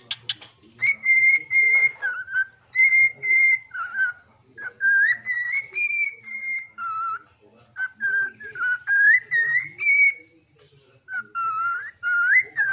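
Pet songbird whistling a sholawat melody: phrases of clear, held whistled notes that slide up and down between a few pitches, with short breaks between phrases.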